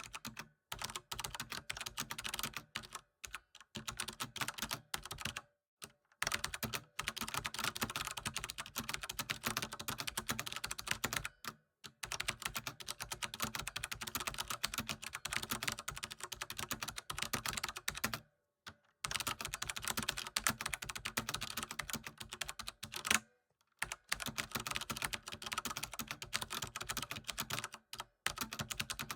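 Continuous fast typing on a computer keyboard: dense runs of key clicks broken by several short pauses of a fraction of a second to about a second.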